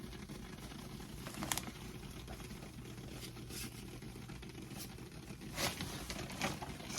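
A few light clicks and scrapes of plumbing fittings and tools being handled, over a low steady hum. One click comes about a second and a half in, and two more come near the end.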